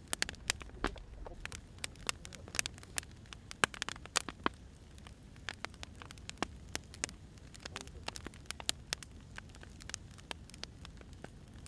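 Firewood burning, crackling with many irregular sharp pops over a low, steady rumble.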